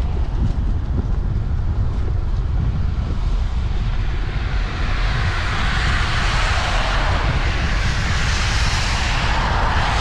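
Ride noise from a bicycle in the rain: wind rumbling on the microphone, with the hiss of tyres on wet pavement that grows louder about halfway through.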